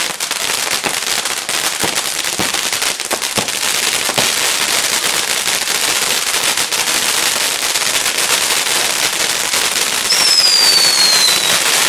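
Fireworks crackling densely: a rapid stream of small pops that merges into a continuous high crackle, with a whistle falling in pitch from about ten seconds in.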